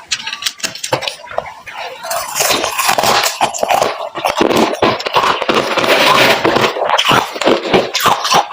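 Freezer frost being chewed close up: a dense run of crisp crunches and crackles that grows louder and busier about two seconds in.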